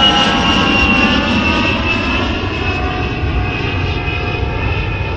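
Jet aeroplane passing, its engine whine slowly falling in pitch over a steady deep rumble.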